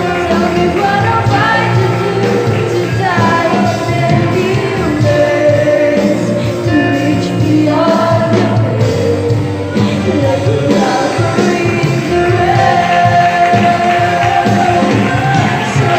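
A youth choir singing a song with instrumental band accompaniment.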